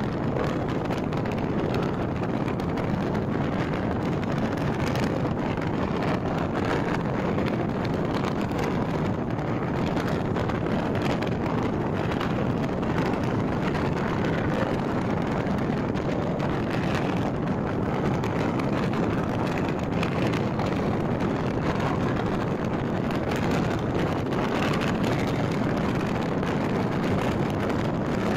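Steady running noise of a passenger train at speed, with wind rushing over the microphone held out of the carriage window.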